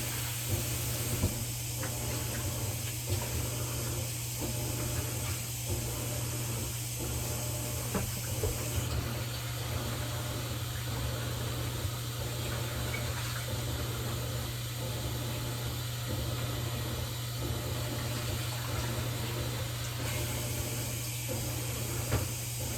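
Kitchen tap running steadily into the sink, with a few small knocks; the flow changes a little twice.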